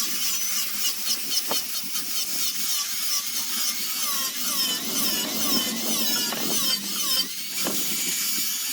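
High-speed rotary sanding tool grinding a zelkova root piece, its high whine wavering up and down in pitch as the bit bears on the wood.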